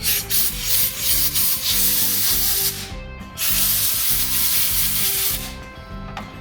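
Compressed-air blowgun hissing through small carburetor parts (jets and passages) to clear them, in two long blasts with a short pause about three seconds in.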